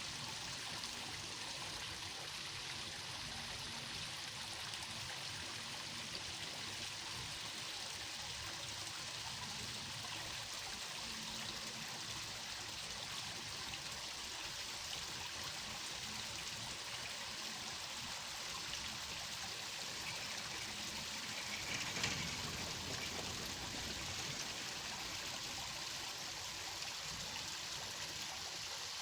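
Flowing water running steadily, like a stream, with one brief louder moment about two-thirds of the way through.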